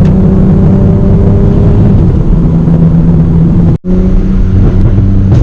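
Straight-piped BMW E90 exhaust, loud and steady at an even pitch, with a sudden brief cut a little under four seconds in.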